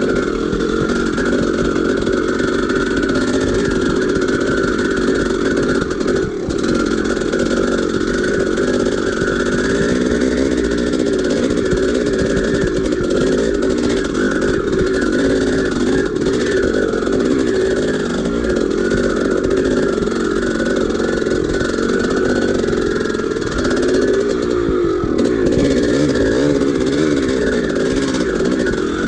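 Dirt bike's two-stroke single-cylinder engine (1983 Maico 490) running continuously while being ridden, its pitch rising and falling with the throttle.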